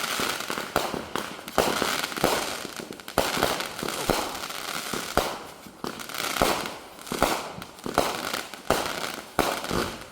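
Consumer fireworks and firecrackers going off, sharp bangs and crackling pops at irregular intervals, some in quick rattling runs.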